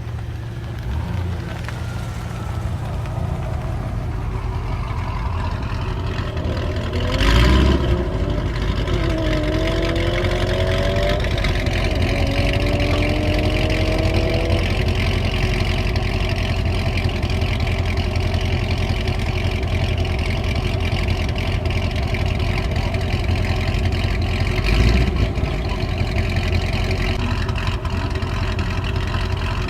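Corvette C6 Z06's 7.0-litre LS7 V8 exhaust idling with a steady low rumble. It gives a sharp rev blip about seven seconds in, then a run of short rising engine notes, and a brief rev near the end.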